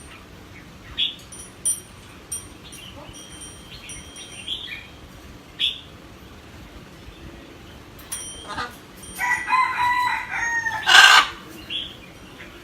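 Pet parrot calling: scattered short high chirps, then about nine seconds in a longer pitched call that ends in a loud harsh squawk.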